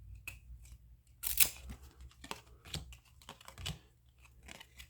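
A stack of 1993 Upper Deck baseball cards being flipped through by hand: irregular crisp clicks and short slides of card stock, the sharpest a little over a second in.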